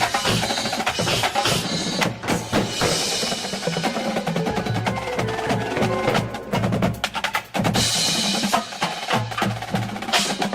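Drum corps percussion section playing: snare and bass drum strikes and rolls in a fast rhythm, over pitched mallet percussion and ringing bell-like tones from the front ensemble.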